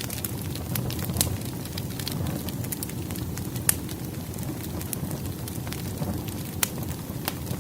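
Wood fire burning: a steady low rumble of flames with irregular sharp crackles and pops from the burning logs, a few louder snaps standing out.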